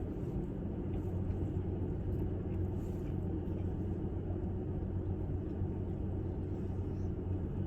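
A steady low hum with a faint buzzing tone runs throughout, under faint chewing of a bite of chicken.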